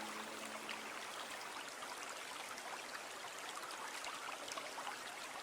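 Running water trickling and babbling, a steady hiss dotted with small drips and splashes. The last held low note of the music dies away about half a second in.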